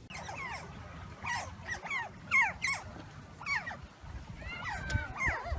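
Small animals giving a quick series of high, squeaky cries, each one falling in pitch, with several calls overlapping near the end.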